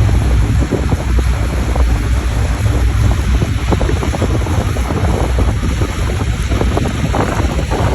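Fishing boat's engine running steadily with a low hum, under loud wind noise on the microphone and sea noise.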